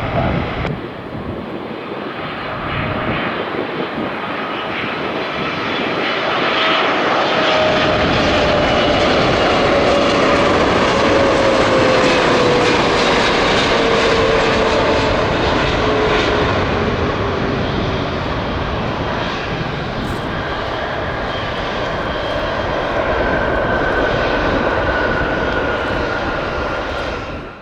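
Boeing 777-300 airliner on final approach passing by, its jet engines' noise building to a peak and then easing slightly, with whining tones that slowly fall in pitch as it goes past.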